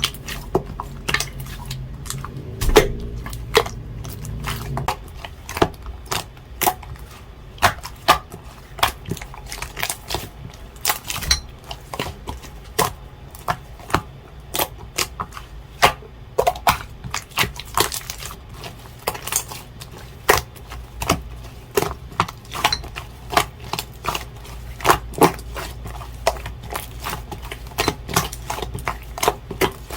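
Blue slime being pressed and squished by hand, giving a steady series of sharp, irregular popping clicks as air pockets burst, about two to four a second.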